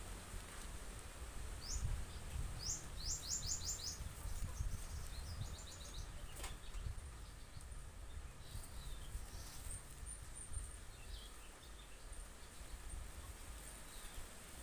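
Small bird chirping in quick runs of short high notes, six or so in a row about three seconds in and another run a couple of seconds later, over a steady low rumble.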